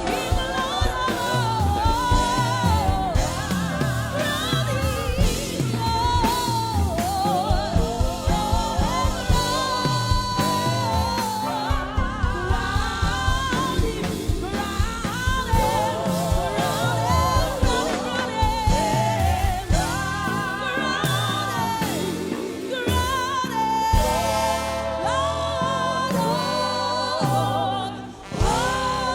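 Live gospel music: singers with wide vibrato over a band with a steady low beat.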